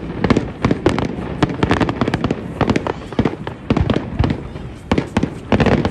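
Fireworks going off in rapid, irregular bangs and crackles, several a second.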